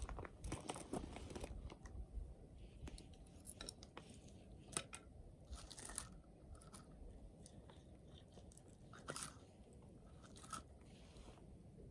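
Wood fire crackling faintly, with scattered sharp snaps and pops over a low steady rumble; the snaps come thickest in the first second or so, with a couple of louder pops near the middle and about three-quarters of the way through.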